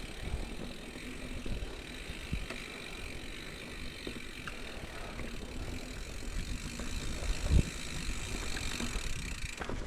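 Mountain bike being ridden along a dirt trail: steady tyre and drivetrain noise over a low rumble, with one sharp knock about seven and a half seconds in.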